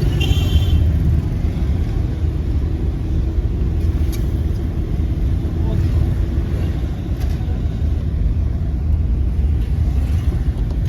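Busy street-market ambience: a steady low traffic rumble with background voices, and a brief high-pitched tone just after the start.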